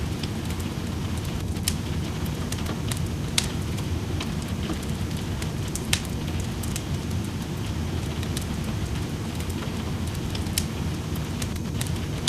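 Wood fire crackling in a fireplace, with sharp pops and snaps scattered through it, over a steady wash of rain.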